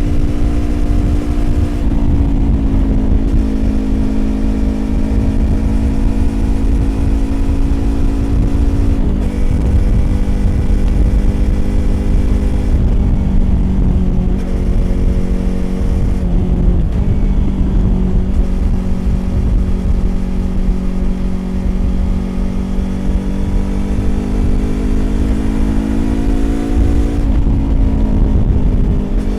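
Yamaha YZF-R25 249 cc parallel-twin engine through a Prunus aftermarket exhaust, riding at steady revs on the motorway. The revs drop about nine seconds in, dip again in the middle, then climb and fall near the end, with a low wind rush underneath.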